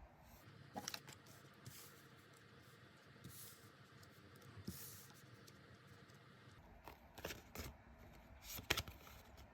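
Tarot cards being handled: a series of faint, short brushes and taps of cards sliding and being laid down, scattered irregularly, busiest near the end.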